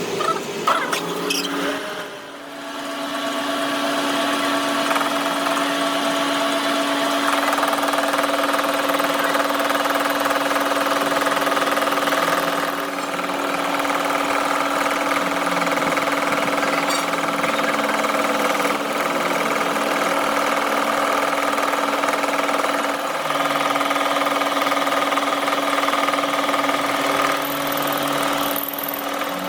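A workshop power tool's motor running steadily, a constant hum with a hiss above it, after a brief dip about two seconds in.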